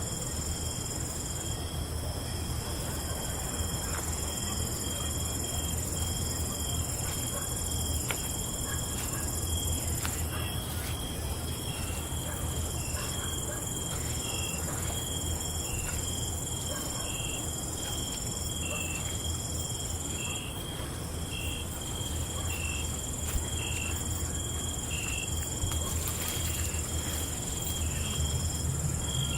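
Night insect chorus: crickets trilling steadily at a high pitch, with another insect chirping about once a second through the second half, over a steady low hum and a soft hiss.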